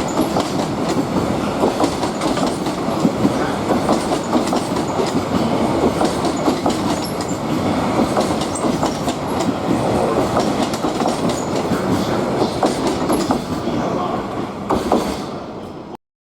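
Freight train passing at speed, its wagon wheels clattering over the rail joints in a steady rumble with faint high wheel squeals. The sound cuts off suddenly near the end.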